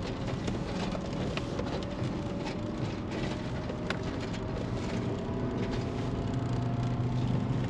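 Car engine and tyre noise heard from inside the cabin while the car tows a caravan down a rutted hill: a steady low rumble with a hum slowly rising in pitch and a few small knocks from the bumps.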